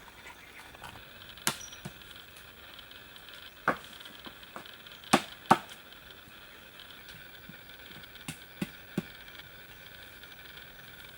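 Tool striking wood: about six sharp, irregular knocks, two of them in quick succession about five seconds in.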